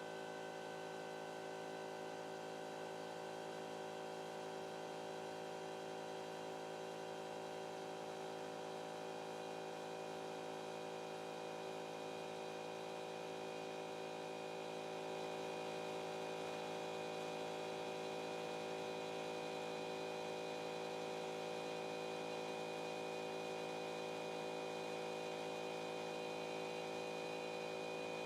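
Stepper motors of a CNC pen plotter running as it draws: a steady hum of several constant tones that grows a little louder about halfway through.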